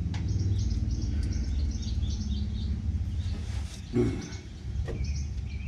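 Small birds chirping repeatedly over a steady low hum, with a brief click about four seconds in.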